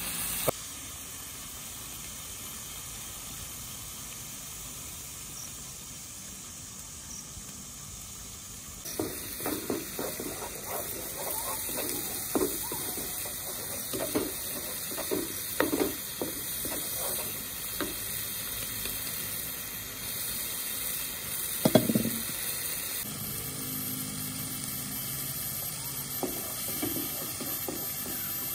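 Chili spice paste sizzling in hot oil in a nonstick wok. After about nine seconds a wooden spatula starts stirring and scraping it across the pan in a run of short strokes, with one louder knock of spatula on pan later on.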